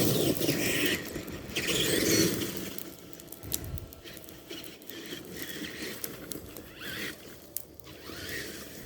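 Tamiya TXT-2 RC monster truck driving, its drivetrain and tyres squealing, with two loud surges in the first couple of seconds and short rising whines later on.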